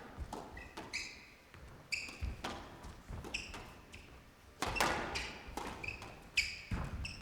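A squash rally in a court: the ball cracks sharply off rackets and walls about once a second, with short high squeaks of players' shoes on the court floor between the hits.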